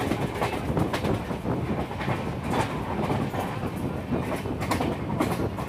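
Passenger express train running at speed, heard from on board the coach: a steady rumble of steel wheels on rail with repeated clacks over the rail joints.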